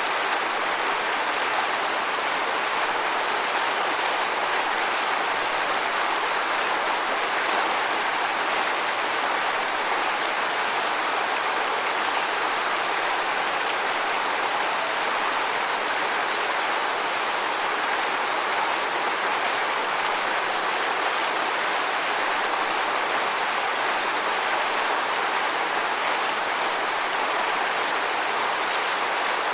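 Waterfall: falling water rushing in an even, unbroken hiss, without change.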